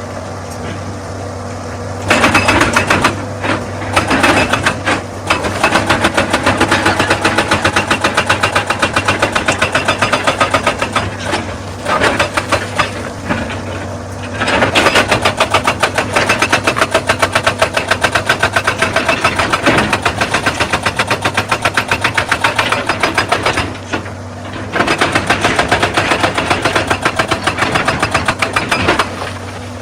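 Excavator's hydraulic rock breaker hammering on stone in long runs of rapid blows, pausing briefly twice, over the machine's steady diesel engine.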